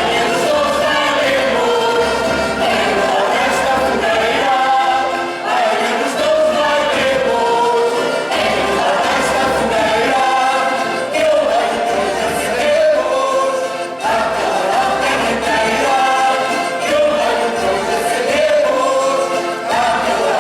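A group of voices singing a Portuguese folk carol of the Reis (Epiphany) tradition together, in phrases with short breaks between them.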